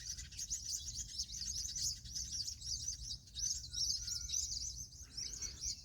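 Many small birds chirping and twittering together in a tree, a dense, continuous high chatter of quick overlapping calls.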